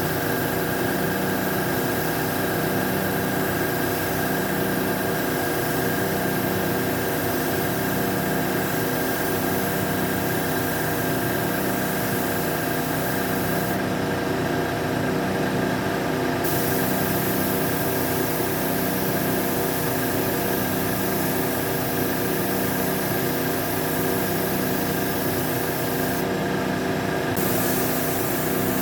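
Power tool running steadily during body repair work, with a rubbing, rasping sound and a slow pulse about every second and a half.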